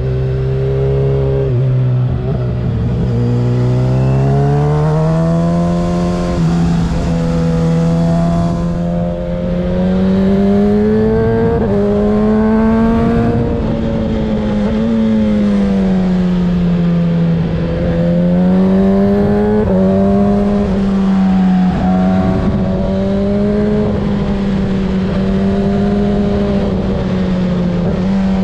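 Kawasaki ZX-6R 636's inline-four engine with a Graves aftermarket exhaust, under way. The engine note rises and falls with the throttle, with several brief breaks.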